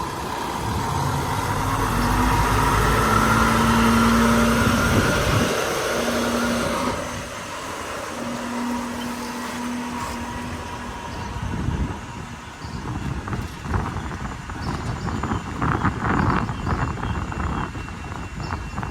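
Semi truck's diesel engine running as the rig maneuvers, growing louder over the first few seconds and easing back down after about seven seconds.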